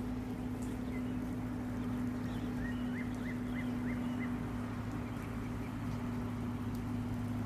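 Birds chirping over a steady low mechanical hum, with a quick run of five short calls near the middle.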